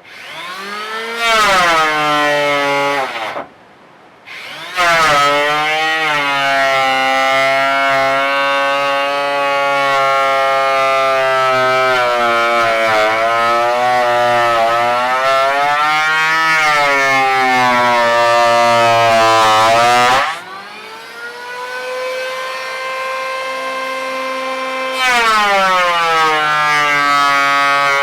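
Electric angle grinder whining at high speed. It spins up about a second in, stops briefly and starts again, then runs steadily with small dips in pitch as it is loaded. Near the end it drops to a lower pitch for a few seconds, then speeds back up.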